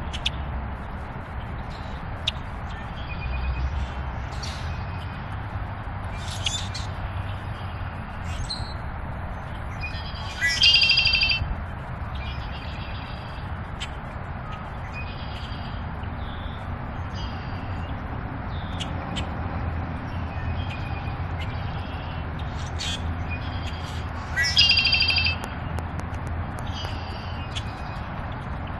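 A bird calling: short scattered chirps throughout, with two louder, longer calls, one about 11 seconds in and another about 25 seconds in.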